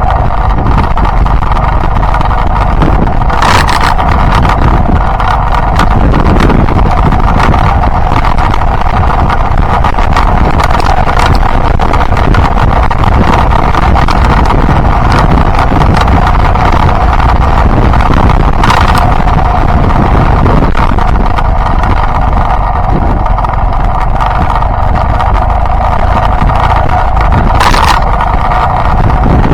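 Yamaha Byson motorcycle's single-cylinder engine running steadily on the move, with wind rushing over the microphone. Three brief louder bursts of noise come about 3, 19 and 28 seconds in.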